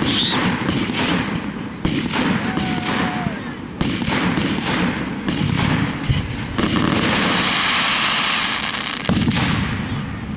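Fireworks display: a series of aerial shell bursts, about five sharp bangs a couple of seconds apart, each trailing off in an echo. Partway through comes a few seconds of dense crackling.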